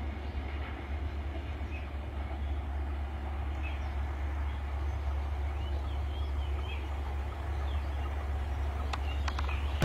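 Diesel-hauled passenger train running along the track: a steady low rumble from the locomotive and carriages, with a couple of faint clicks near the end.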